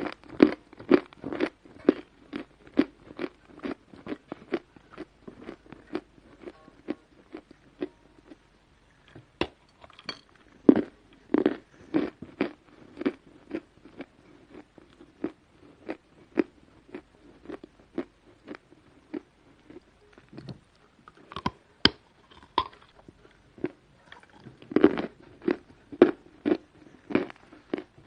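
A person biting and chewing hard edible chalk close to the microphone: a steady crunch at about two to three chews a second, with louder fresh bites near the start, about eleven seconds in, and twice more near the end.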